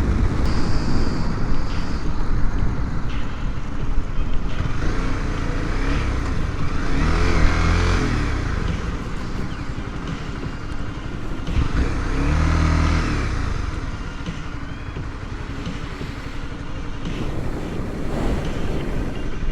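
Motor vehicle running under continuous road noise, in a motorcycle ride. An engine note swells louder twice, about 7 and 12 seconds in.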